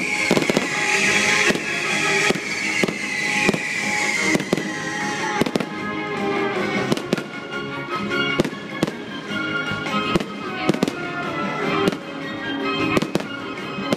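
Fireworks bursting in a steady string of bangs, one every second or so, over accompanying music. A hissing whistle falls slowly in pitch during the first few seconds.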